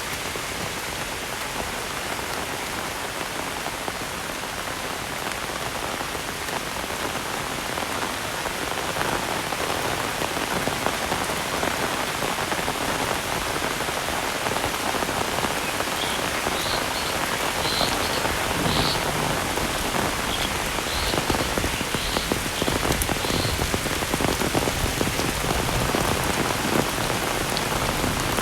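Heavy rain pouring steadily, growing a little heavier after several seconds, with close drops pattering sharply in the second half. A run of short high chirps sounds briefly about midway.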